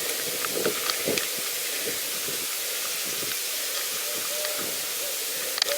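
Steady hiss of riding a pedal bike, tyre and air noise with scattered light ticks. From about four seconds in come a few short, low hooting notes.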